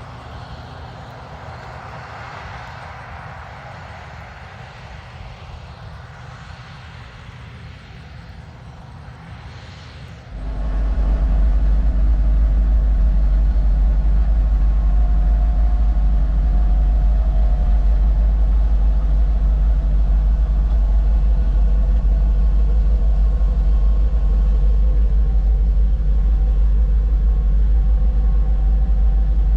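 Vehicle engine running steadily; about ten seconds in, a much louder low rumble sets in suddenly and holds steady.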